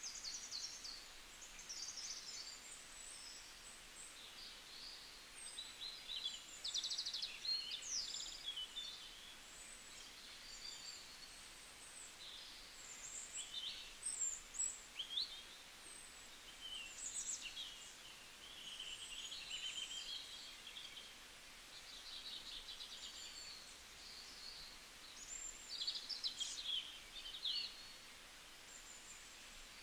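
Small songbirds chirping and twittering, many short high calls and quick trills overlapping irregularly, over a faint steady hiss.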